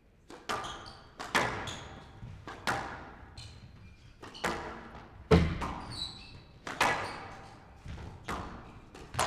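Squash rally: a series of sharp ball strikes from rackets and off the court walls, about one or two a second, each ringing briefly in the hall.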